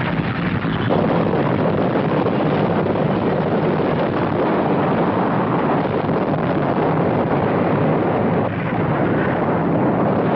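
Earthquake sound effect: a loud, steady, roaring rumble, briefly dipping near the start and about eight and a half seconds in.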